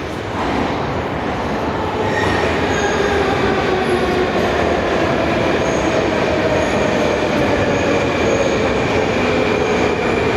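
Moscow metro train running into the station: rumble of the wheels on the rails with a whine from the traction motors that grows louder about two seconds in and then slides slowly down in pitch as the train slows.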